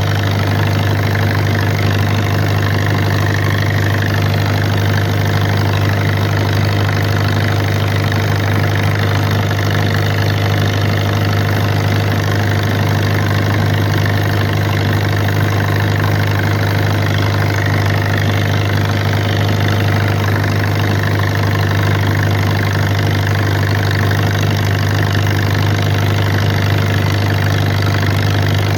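Someca SOM 40 tractor engine running at one steady, unchanging speed, kept running to burn out carbon deposits.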